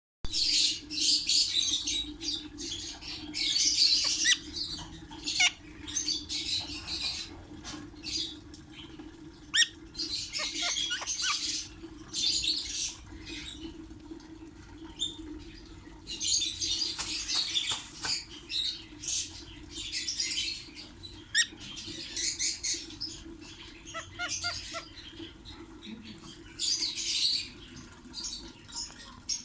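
Pet lovebirds moving about: repeated short bursts of wing flapping and rustling, with a few brief chirps and squawks. A steady low hum runs underneath.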